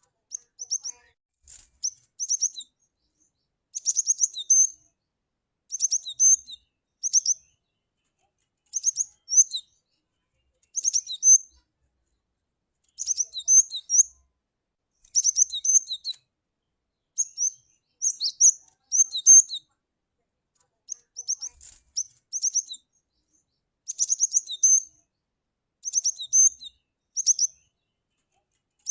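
Cinereous tit (glatik batu) calling: clusters of short, sharp, very high notes, repeated every second or two with brief silences between. It is a calling sound of the kind played to lure the bird.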